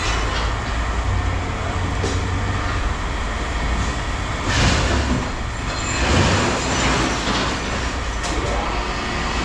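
Heavy machine's engine running with a steady low rumble, with louder noisy bursts about halfway through and again a second or two later.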